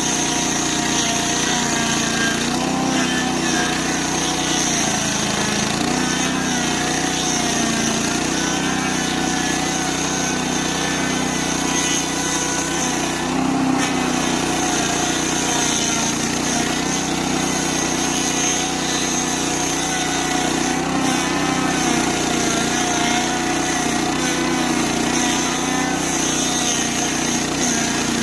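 Stump grinder's 8 hp engine running hard without a break, its pitch wavering up and down as the cutter wheel with Greenteeth 500 teeth grinds a stump, with a steady high hiss over it.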